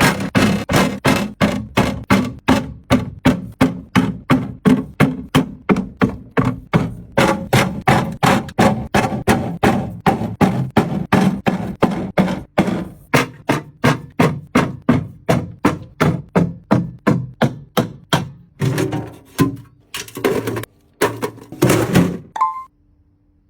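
A rapid, even series of knocks, about three a second, stopping about three-quarters of the way through; a few longer, noisier sounds follow before it goes quiet near the end.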